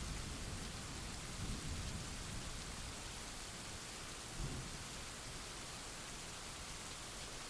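Steady hiss of heavy rain, with a low rumble of thunder fading away over the first two seconds and a brief low thump about four and a half seconds in.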